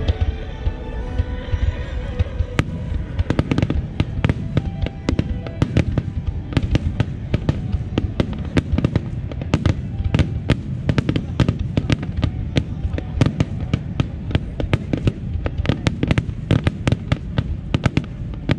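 Starmine fireworks barrage: shells bursting in a dense rapid string of sharp bangs and crackles, several a second, thickening after the first few seconds. Music with held notes fades out at the start.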